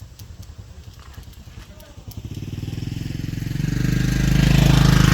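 A vehicle's engine drawing near, its pulsing running sound growing steadily louder from about two seconds in and loudest near the end.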